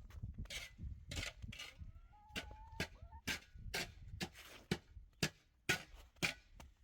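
A series of sharp knocks, about two a second, loudest in the second half, over a low rumble that fades out after the first couple of seconds.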